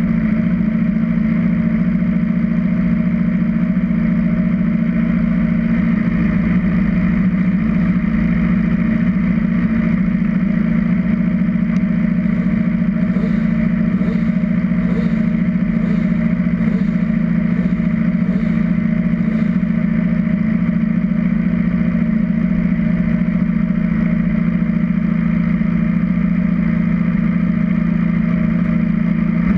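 Race motorcycle engine idling steadily at a constant pitch, heard close up.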